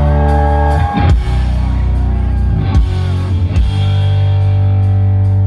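Rock band playing live and loud: electric guitars holding sustained low chords over bass and drums. The chords break off briefly about a second in and again around the three-second mark, where drum hits come through.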